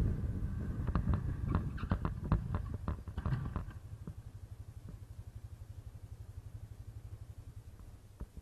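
A quick series of sharp knocks and clatter for about three seconds over a vehicle's engine and road rumble. After that the vehicle runs on steadily with an even low throb, and the sound cuts off near the end.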